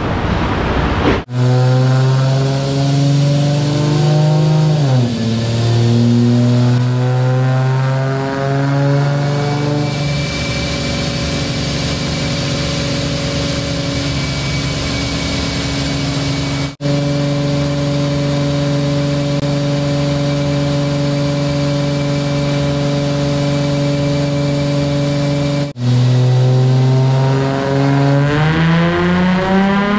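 Infiniti G35 sedan's 3.5-litre VQ35HR V6 running on a chassis dyno, its exhaust loud through test pipes and a full catback. The engine holds a steady speed for most of the time and drops in pitch once about four seconds in. Near the end the pitch climbs steadily as the engine is run up for the baseline pull.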